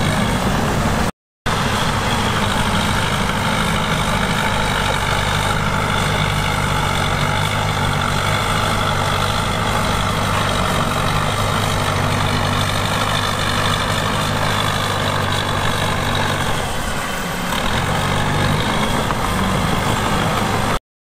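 Heavy diesel engine of earthmoving machinery running steadily at a constant speed, with a brief dip a few seconds before the end. The sound drops out completely for a moment about a second in.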